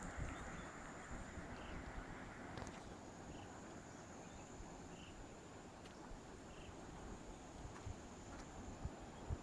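Insects, likely crickets, trilling in one steady high-pitched tone, with short faint chirps about once a second. A low rushing noise sits underneath.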